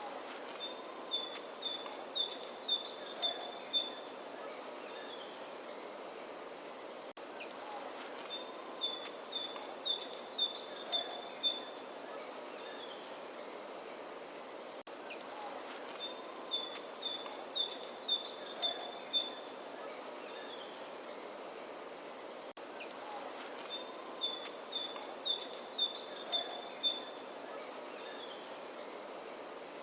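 A songbird singing the same short phrase four times, about every seven and a half seconds: a quick high note sliding down, then a run of short repeated notes, over a faint steady hiss. The repeats are identical, as in a looped birdsong recording.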